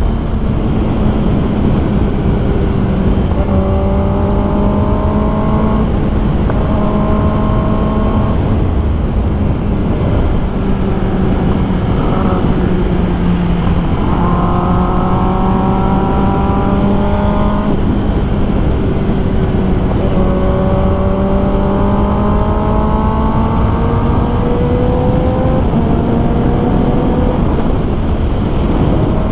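Kawasaki ZX10R inline-four sport bike engine pulling on the open road. Its pitch climbs through the revs and drops at each shift, several times over, under heavy wind rush.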